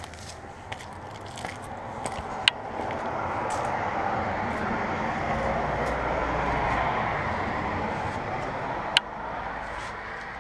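A road vehicle drives past, its tyre and engine noise swelling to a peak midway and fading away. Two sharp clicks come through, one about two and a half seconds in and one near the end.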